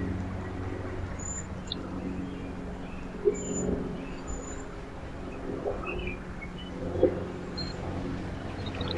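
Small songbirds giving brief, high chirps a few times over a steady low mechanical hum, with two short knocks, one about a third of the way in and one about three-quarters through.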